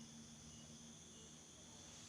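Near silence with faint night insects, such as crickets, trilling steadily, and a faint low hum.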